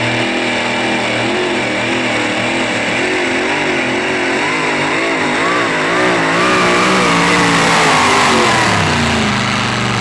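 Light modified pulling tractor's engine running hard at high revs under load, its pitch wavering up and down rapidly through the middle of the run. It grows louder, then the revs drop about nine seconds in.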